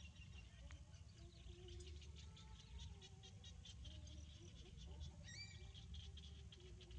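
Faint outdoor ambience: small birds chirping in quick, repeated high notes, with one clearer rising-and-falling call a little past five seconds in, over a low rumble.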